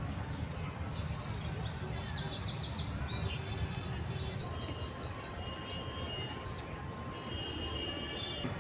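Small birds calling: two quick runs of repeated high chirps about two and four seconds in, over steady low background noise.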